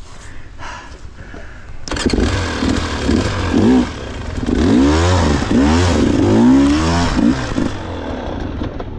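Two-stroke dirt bike engine revving hard in repeated rising and falling bursts. It comes in suddenly about two seconds in and eases off near the end.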